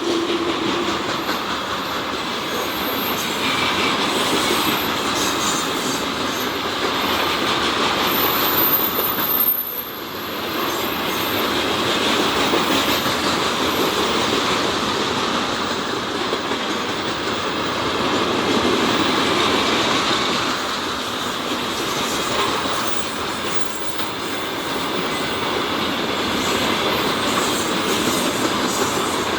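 Freight train passing at close range, its wagons' wheels rolling over the rails in a steady loud rumble. There is a brief drop in level about ten seconds in.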